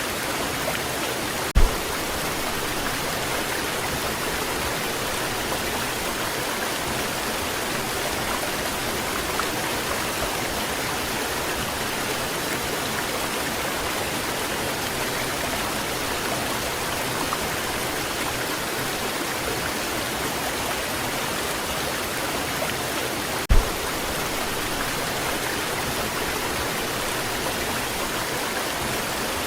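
Waterfall rushing steadily, an even wash of falling water. Two brief low thumps break through, once near the start and once late on.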